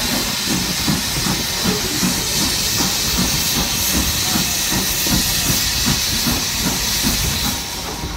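Passenger train heard on board while moving: a loud, steady hiss over a low, quickly pulsing rumble of about three beats a second. The hiss eases near the end.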